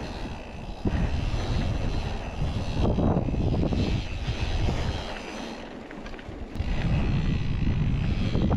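Wind buffeting the microphone during a mountain-bike ride, a gusty low rumble. It eases off for a moment about five seconds in and then comes back strongly.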